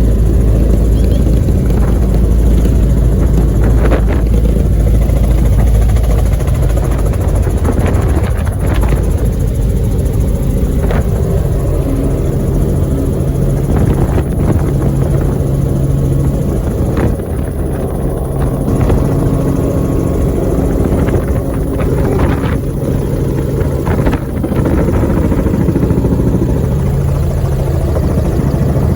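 Helicopter engine and rotor running steadily during a ride, a loud, unbroken low drone.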